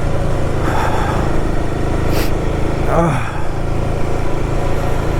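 Royal Enfield Himalayan 450 motorcycle running steadily under way, a constant low engine and road rumble with a haze of wind noise. A brief voice sound about three seconds in.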